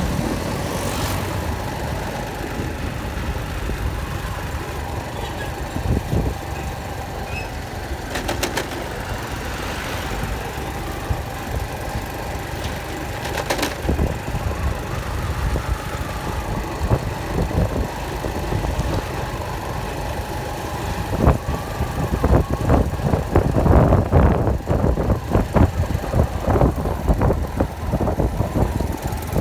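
An engine running steadily at low revs, with a few sharp clicks; in the last several seconds the sound grows louder and more uneven.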